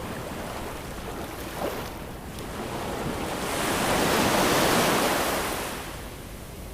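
Ocean waves: a steady wash of surf, with one wave swelling up about halfway through, breaking and receding.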